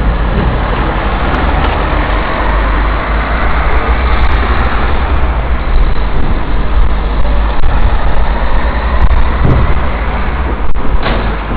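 Fireworks salute: a loud, continuous rumble of bursts, with a sharp bang near the end.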